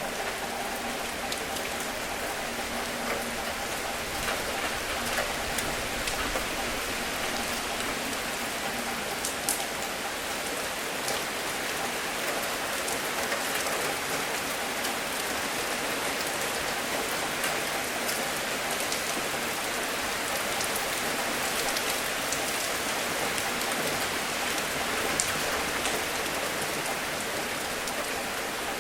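Steady rain falling, an even hiss with many individual drops ticking sharply throughout.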